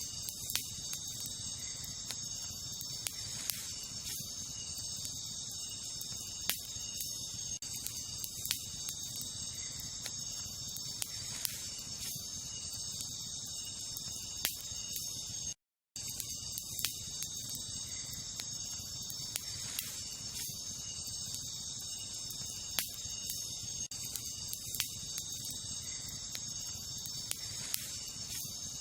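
Wood campfire crackling, with sharp single pops every second or two, over a steady chorus of night insects such as crickets. The sound cuts out completely for a moment about halfway through.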